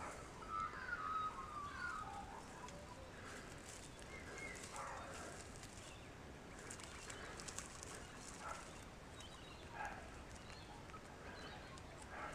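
Faint wild bird calls: a few wavering chirps and whistles, busiest in the first couple of seconds, with soft scattered rustles and clicks between them.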